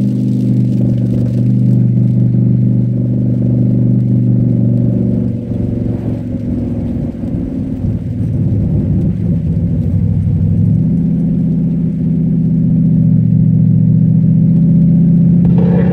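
Cadillac STS-V's supercharged V8 running hard on track. The engine note wavers and drops off around the middle as the car slows for a corner, then picks up about two-thirds of the way through and holds louder under acceleration.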